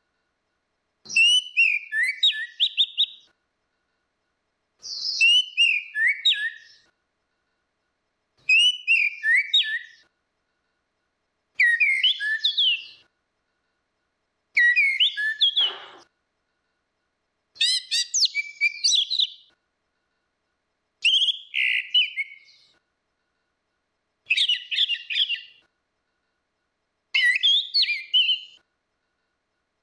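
Orange-headed thrush song: nine short phrases of rich whistled and chattering notes, each about two seconds long, repeated about every three seconds with complete silence between them.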